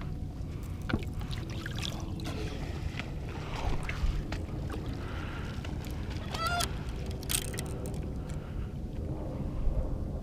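A single short honking bird call about six seconds in, over a steady low background rumble and a few faint clicks.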